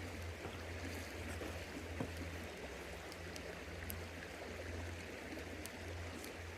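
A river flowing steadily with a constant rushing noise and a deep low rumble, with a few faint clicks over it.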